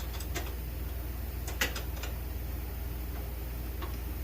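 A few light clicks and knocks of metal parts being handled, the sharpest about a second and a half in, over a steady low hum.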